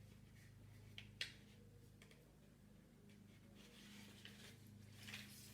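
Faint handling of a cardboard egg carton and yarn: two soft clicks about a second in, then light rustling, over a steady low electrical hum.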